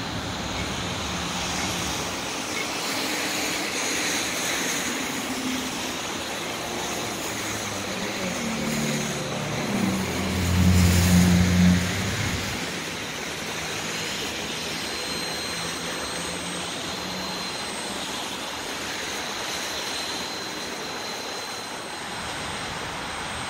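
Freight train of boxcars rolling past: a steady rush of steel wheels on the rails, with a louder low rumble for about two seconds near the middle.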